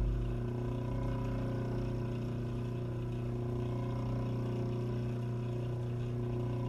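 Steady, unchanging mechanical hum made of several held tones, like a motor or appliance running.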